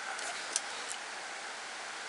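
Steady background hiss with a few faint light clicks in the first second, like small taps or handling of nail tools.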